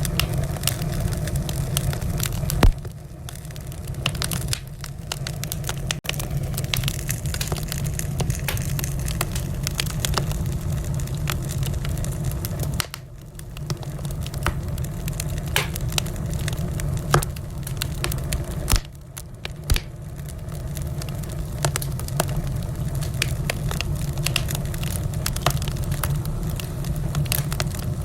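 Wood fire crackling in a fireplace: a steady low rumble of burning logs with frequent sharp pops and snaps, a few louder pops standing out, about three seconds in and again near the middle.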